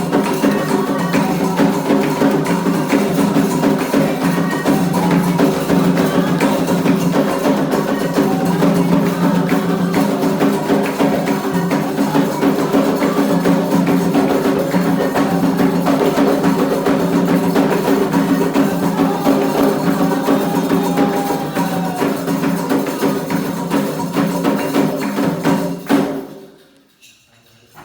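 Candomblé ritual percussion music: drums with a steady struck wood-block or bell rhythm, playing loudly and stopping abruptly about 26 seconds in.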